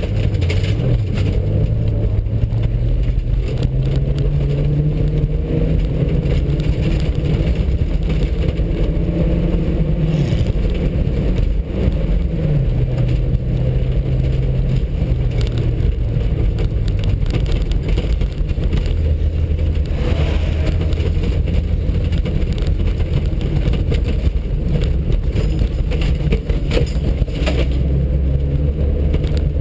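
VW Passat 2.0-litre engine heard from inside the cabin, pulling hard on a dirt track: the revs climb, drop about ten seconds in, climb again and settle lower in the second half. A constant rumble of tyres and wind on loose dirt underneath, with a few sharp knocks from the rough surface.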